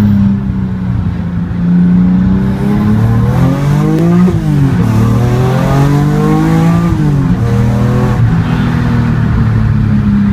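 BMW Z4 M's S54 straight-six engine through a Supersprint exhaust, accelerating hard. The note holds steady, then climbs sharply twice, dropping at each upshift, and settles back to a steady cruise.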